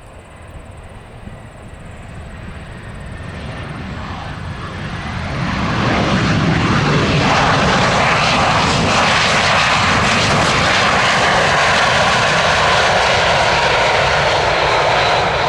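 Twin rear-mounted turbofans of a Mitsubishi CRJ-700 regional jet on its landing pass, growing louder over about six seconds and then holding a loud, steady rush with a faint whine.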